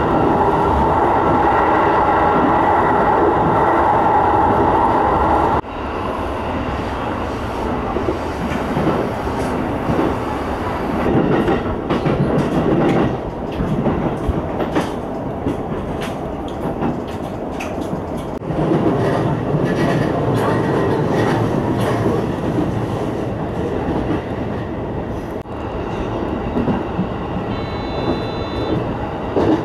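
E233-series electric commuter train running, heard from inside the driver's cab: steady motor and wheel noise with the clickety-clack of wheels over rail joints. The sound drops abruptly about five seconds in, and a brief high electronic tone sounds near the end.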